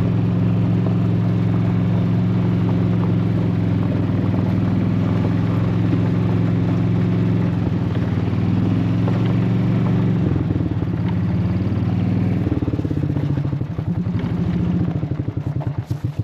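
Golf cart's engine running as it is driven, shifting in pitch several times, then slowing into separate beats and cutting out near the end as the cart comes to a stop.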